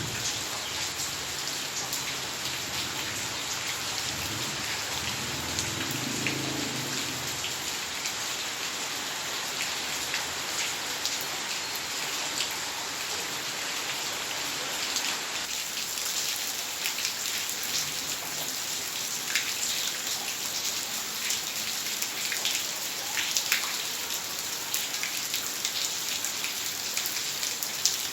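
Heavy rain falling steadily, a dense even hiss. A low drone sits under it for the first several seconds. About halfway through the sound changes abruptly, and single drops and drips become sharper and more distinct.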